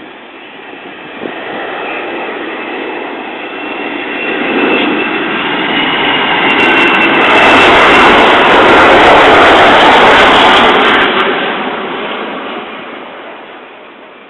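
Jet airliner passing close by the airport: a roar with a high whine that swells to a peak about halfway through and then fades away. It is recorded on a mobile phone, whose sound turns harsh and overloaded at the loudest point.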